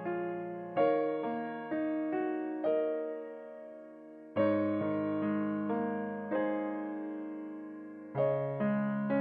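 Soft piano background music: slow chords and single notes that ring out and fade, with a new chord about every four seconds.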